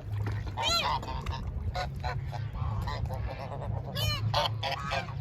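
Waterfowl at a park pond honking: a series of short, nasal calls, two of them louder than the rest, about a second in and again about four seconds in.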